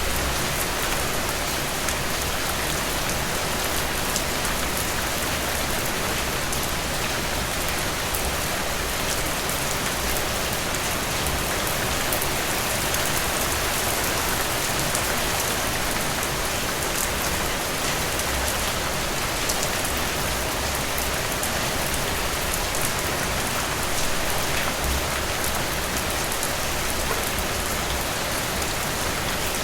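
Steady rain: a dense, even hiss of falling drops with fine individual drop ticks, over a low rumble.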